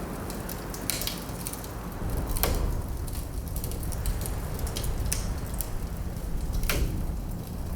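Wood fire crackling in a fireplace, with scattered sharp pops, a few louder ones among them, over a steady low wind rumble.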